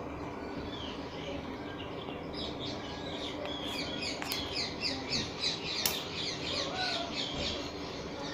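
A small bird chirping in a rapid run of short, falling high notes from about two seconds in, with one sharp click near six seconds.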